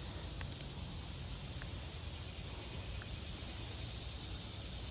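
Steady outdoor background by a creek: an even hiss with an uneven low rumble and a few faint ticks, but no distinct event.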